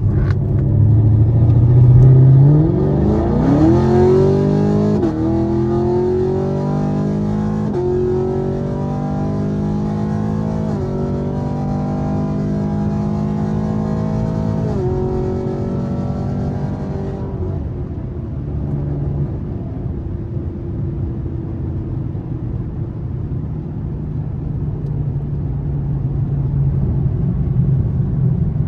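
Chevrolet Camaro SS V8 under hard acceleration, revving up through the gears of its 10-speed automatic with four quick upshifts. Near the middle it lifts off and settles into a steady cruising drone.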